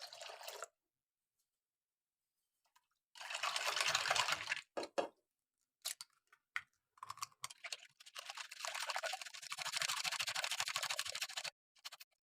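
Kitchen tap water running in two spells, the second longer, with a few short knocks and clinks between them.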